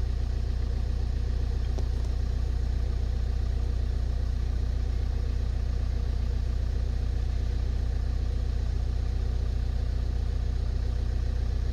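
Ford Mondeo Mk4 1.8 TDCi four-cylinder diesel engine idling steadily, warmed up after about ten minutes' running, heard from inside the cabin.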